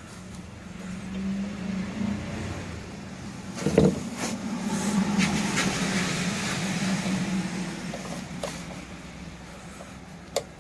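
A road vehicle passing by: engine hum and tyre hiss swell over several seconds and fade away. A sharp knock comes about four seconds in.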